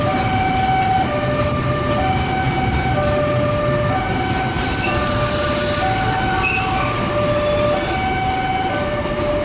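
Railway level-crossing alarm sounding two alternating electronic tones, high then low, each lasting about a second, in a steady repeating cycle. Beneath it is the continuous rumble of a train on the track.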